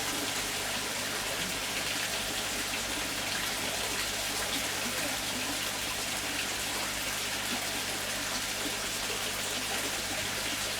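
Steady, unbroken rush and patter of water.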